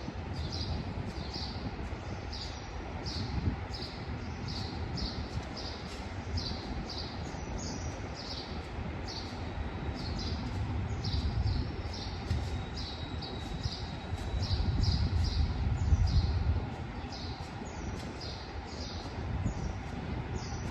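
GE diesel-electric locomotive (SRT GEA class) idling with a low rumble that swells twice, strongest about fifteen seconds in. Over it, short high chirps repeat about twice a second.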